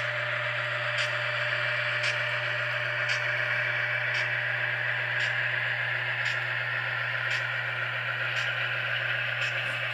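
HO scale model diesel locomotive's Tsunami sound decoder playing turbocharged EMD 645 prime mover sound through its small speaker, a steady hum and hiss, with a sharp click about once a second as the model runs.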